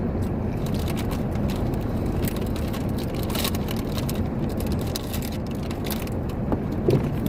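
Steady rumble of a truck idling with its heater running, heard inside the cab, with irregular crackling and crunching from a bag of potato chips being eaten.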